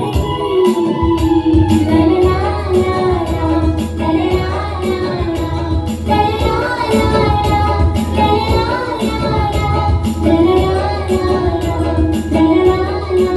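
A Hindi song sung by voices over instrumental backing, with a steady bass line and a regular percussion beat.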